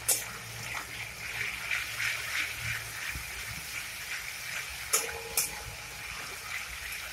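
Onion, tomato and ginger-garlic paste frying in oil in a metal kadai, a steady sizzle, while a flat metal spatula stirs through it. A few sharp clacks of the spatula against the pan come at the start and about five seconds in.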